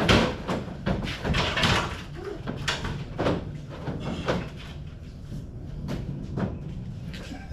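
A run of irregular knocks and clunks, several in the first few seconds and more spaced out later, over a steady low hum.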